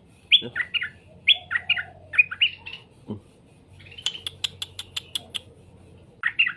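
Straw-headed bulbul (cucak rowo) singing: loud warbling phrases of quick, gliding notes, then a fast run of sharp clicking notes, about six a second, some four seconds in, and another phrase starting near the end.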